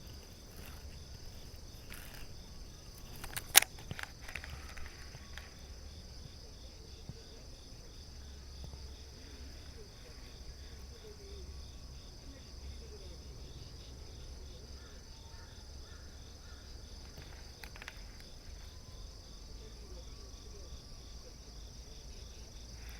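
Insects chirring steadily, a continuous high buzz with a fast, even pulse. A single sharp click stands out about three and a half seconds in.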